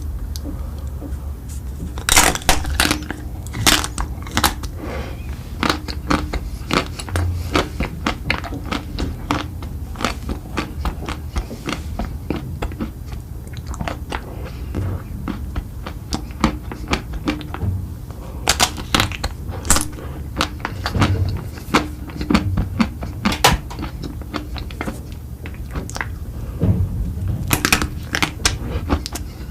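Close-miked eating: crunchy bites and chewing, a dense run of sharp crackling clicks, with louder crunches coming in clusters about two seconds in, near the middle and near the end.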